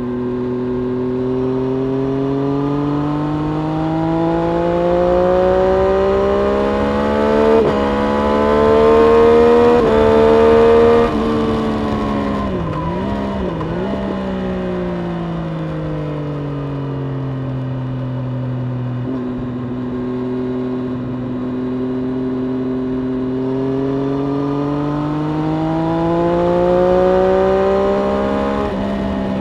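Triumph Street Triple RS 765 inline three-cylinder engine heard onboard, revving higher under hard acceleration for the first ten seconds or so. About eleven seconds in the throttle shuts and the pitch falls, with two quick dips and recoveries in revs as it slows. It then holds lower revs and pulls up through the revs again in the second half, with a couple of small steps in pitch near the end.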